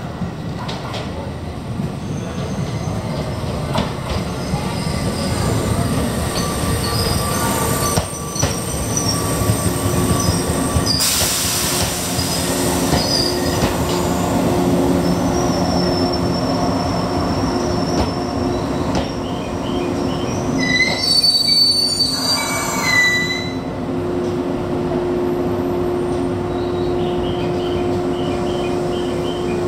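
Izukyu 2100 series electric train pulling into the platform and running past, with wheel rumble and high squealing as it slows to a stop. Near the end a steady hum sets in as it stands.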